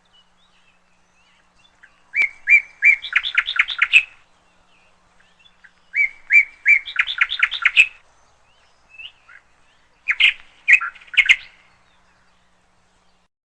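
Canary singing three short phrases a few seconds apart, each a few spaced chirps running into a quick trill.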